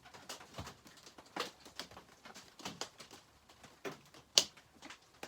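Scattered small clicks and taps of chainsaw parts and tools being handled on a workbench, with one sharper click a little over four seconds in.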